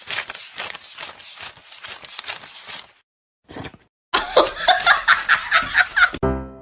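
Laughter: breathy, quickly repeating bursts for about three seconds, a short pause, then louder voiced laughing in rapid pulses from about four seconds in.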